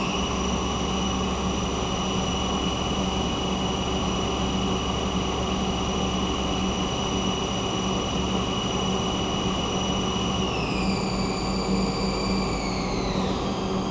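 Haas CNC lathe running with its spindle turning, giving a steady high whine over a constant low hum. The whine drops in pitch about ten seconds in and falls further near the end as the spindle slows.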